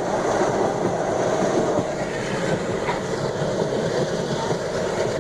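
Train carriage in motion, heard from aboard: a steady rumble and rattle of the wheels on the track.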